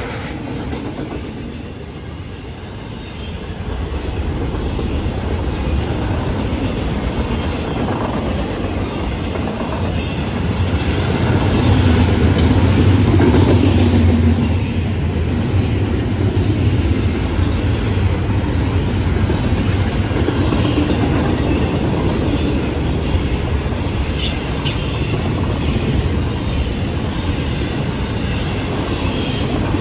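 Double-stack intermodal container well cars of a freight train rolling past close by: a steady rumble of steel wheels on the rails, loudest a little under halfway through, with a few sharp clicks near the end.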